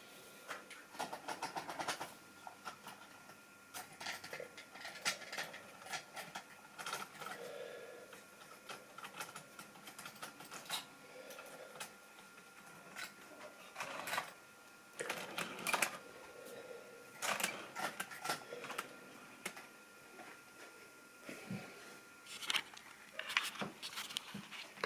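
Model railway train running on the track: a faint, steady thin whine from its small electric motor, with irregular clusters of clicking and clattering from the wheels and rolling stock on the rails.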